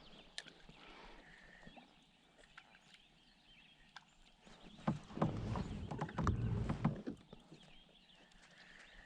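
Water splashing and several knocks around a kayak for about two seconds midway through, over faint bird chirps.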